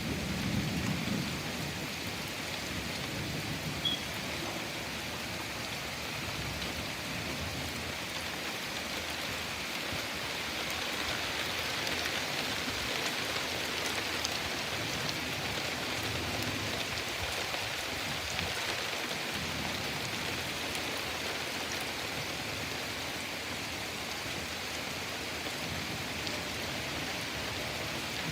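Steady rain falling and pattering on surfaces, with a low rumble of thunder dying away in the first couple of seconds.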